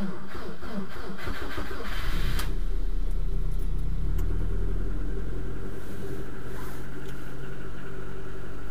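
A car engine cold-started in hard frost: the starter cranks for about two seconds, then the engine catches and runs, louder for a couple of seconds before settling to a steady cold idle, heard from inside the cabin.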